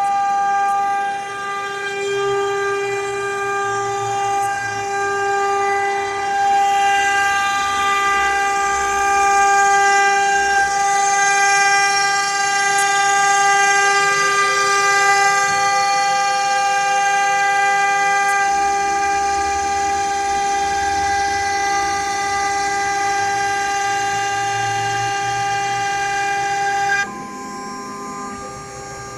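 2.2 kW spindle of a CNC milling-engraving router running with a steady high whine over a changing rushing noise. The level drops sharply near the end.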